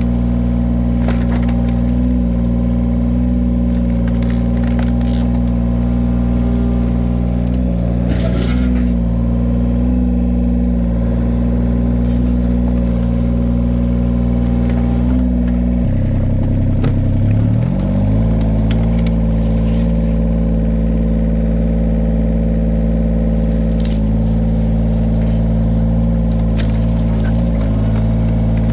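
Engine of a firewood-splitting machine running steadily. About sixteen seconds in its pitch drops under load and climbs back within two seconds. A few short cracks or knocks are heard along the way.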